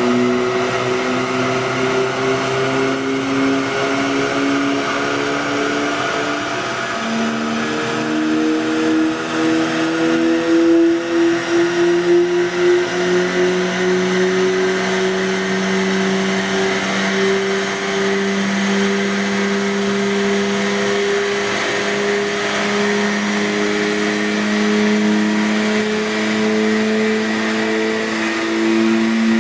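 Ford 2.0 Duratec inline-four petrol engine in a Ford Focus pulling under load on a chassis dyno during a power run, its pitch climbing slowly and steadily as the revs build, with a shift in the engine note about seven seconds in. The dyno rollers and a large cooling fan add a steady rushing noise underneath.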